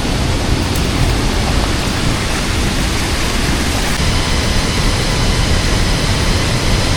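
Loud, steady rush of a large river's flowing water.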